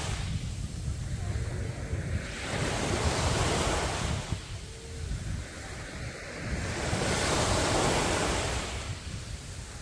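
Sea waves breaking and washing up a beach, swelling twice, about a third of the way in and again near three-quarters through. A steady low rumble of wind on the microphone runs underneath.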